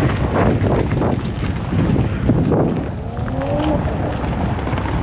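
Wind buffeting the microphone over a steady low rumble, with a faint voice briefly in the background about three seconds in.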